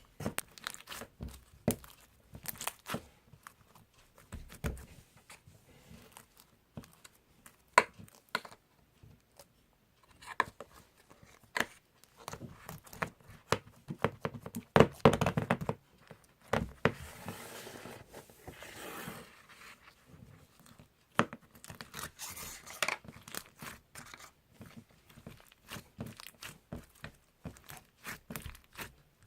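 Irregular handling noises close by: crinkling and tearing-like rustles with scattered light knocks and clicks, busiest about halfway through.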